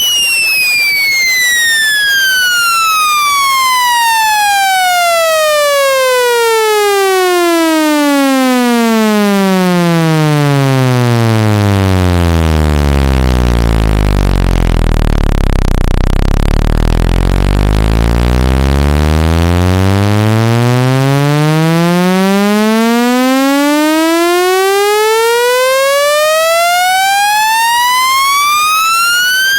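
Electronic speaker-cleaning test tone, a buzzy tone with many overtones, gliding steadily down in pitch from a high whine to a deep bass hum, staying low around the middle, then gliding back up to a high whine. It sweeps between about 30 Hz and 3000 Hz to shake water and dust out of a phone speaker.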